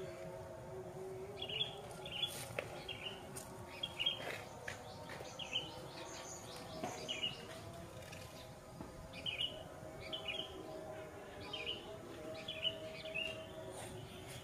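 A bird chirping, a short high chirp repeated roughly once a second, over a faint low steady hum in the background.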